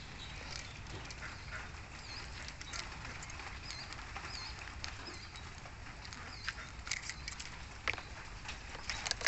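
Intermittent bird calls: scattered short, sharp calls and a few small high chirps over a steady low background noise.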